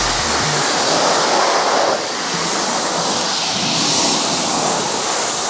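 Steady hiss of a pressure washer's water jet spraying onto a car.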